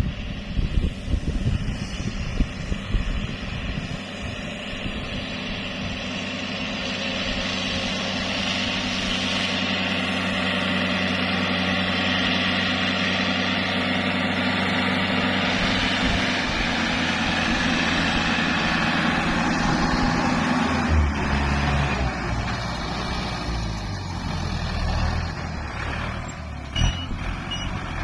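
Farm tractor engine running steadily as it pulls a furrowing implement across the field, growing louder over the first twenty seconds, then dropping to a deeper note about two-thirds of the way through.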